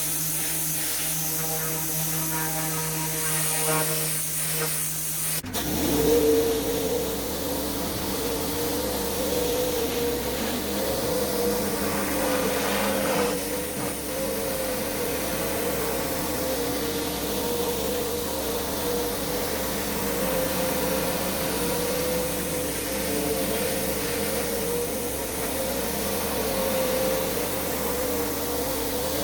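Pressure washer running steadily with an even engine hum; about five seconds in it switches suddenly to a steady hissing spray with a constant whine over it.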